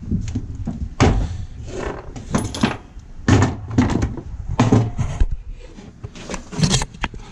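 Irregular knocks, clicks and clatter of chainsaw parts being handled and fitted during reassembly, a dozen or so separate knocks.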